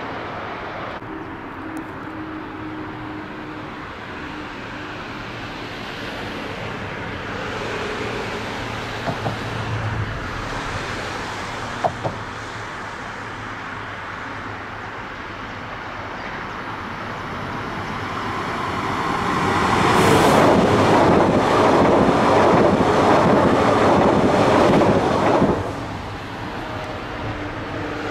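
A train passing close by: a rush of wheel and rail noise that builds, holds loud for about five seconds, then drops away suddenly.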